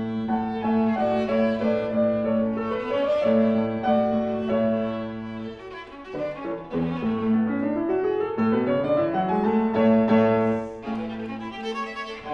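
Live chamber music: a bowed viola holding sustained notes with piano accompaniment. The music dips briefly about halfway through, then rising runs of notes climb between about seven and ten seconds in.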